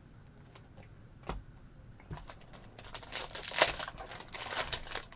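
A few light clicks of trading cards being handled, then a foil trading-card pack wrapper crinkling and tearing open for about two seconds, starting near the three-second mark.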